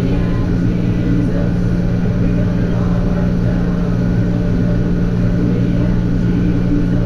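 Vehicle engine running at a steady speed, a low even drone.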